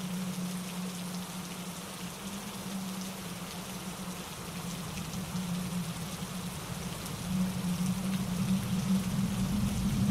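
Steady rain falling on trees and rocks, with a mountain stream rushing over granite boulders beneath it. It grows louder about three-quarters of the way through.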